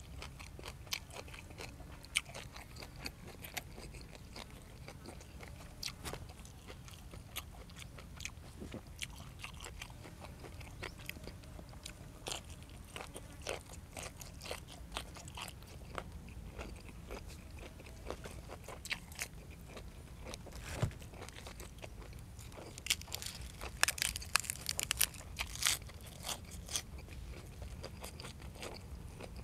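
A person chewing and crunching food close to the microphone: blanched squid and crisp raw vegetables, with many short crunches and a denser run of them about four-fifths of the way through.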